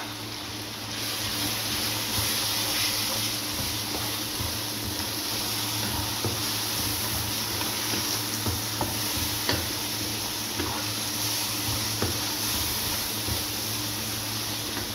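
Onions, tomatoes and ginger-garlic paste sizzling in oil in a nonstick wok while a plastic spatula stirs them, scraping and now and then clicking against the pan. The sizzle picks up about a second in, over a steady low hum.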